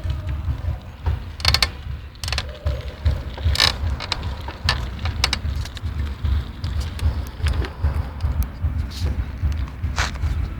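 2011 GT Avalanche mountain bike crackling as its pedals are pushed under the rider's weight: scattered sharp clicks, irregular and about a second apart, over a low rumble. It is an unexplained crackle from the drivetrain of a bike only five weeks old.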